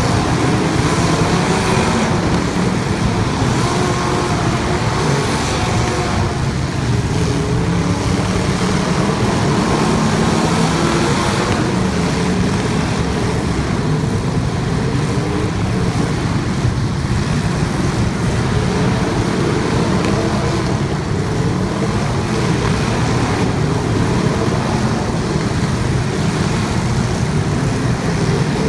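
Several limited weld race car engines running together as the field laps the track, a loud, continuous blend of engine noise whose pitch rises and falls now and then as cars pass.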